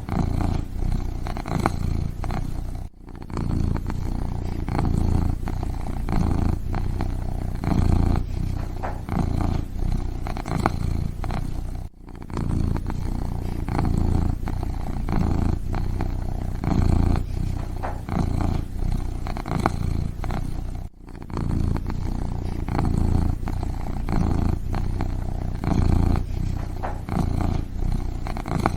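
Kitten purring steadily, a low continuous rumble with three brief breaks about nine seconds apart.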